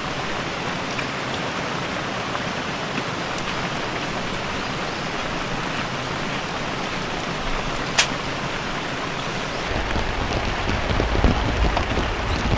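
Heavy typhoon rain falling steadily, with a single sharp click about eight seconds in. From about ten seconds a low, uneven rumble joins the rain, rising and falling.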